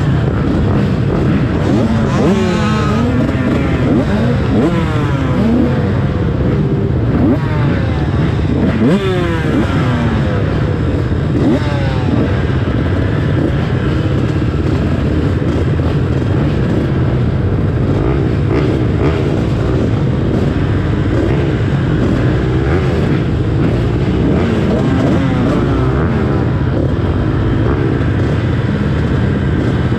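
A pack of motocross bikes racing, many engines revving at once, their pitch repeatedly rising and dropping as the riders accelerate and shift gears.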